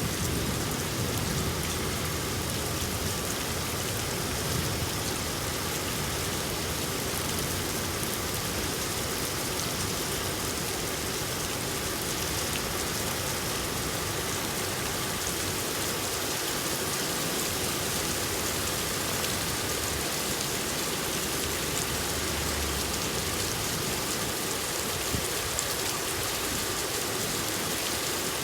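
Steady rain falling and pattering on surfaces, an even hiss of countless drops.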